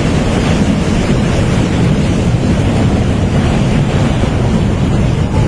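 Swollen floodwater rushing past, a loud, steady noise, with wind buffeting the microphone.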